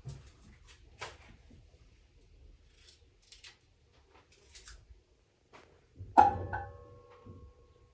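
Kitchen handling sounds: a few light clicks and scrapes, then about six seconds in one sharp knock of a hard ringing object, such as cookware, that rings on and fades over a second or so.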